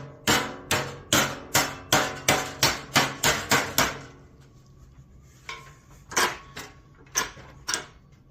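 A hammer striking sheet metal: a quick run of about ten ringing blows, two to three a second, then a pause and a few slower, scattered blows.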